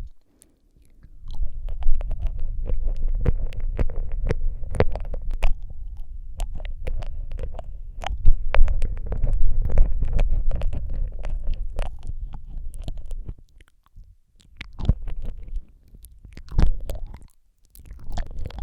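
Close-up ASMR mouth sounds into a Rode microphone: rapid, irregular wet clicks and smacks of lips and tongue, over a low rumble, pausing briefly a couple of times near the end.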